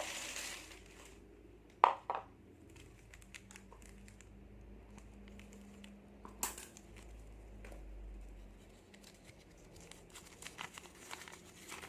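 Plastic snack packets crinkling as they are handled and torn open, with a few sharp crackles and snaps: a burst at the start, two sharp ones about two seconds in, another around six and a half seconds, and a flurry of small crinkles near the end.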